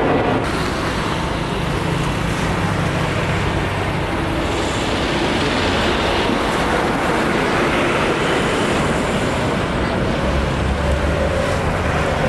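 Steady vehicle noise: a continuous rumble without breaks that grows deeper near the end.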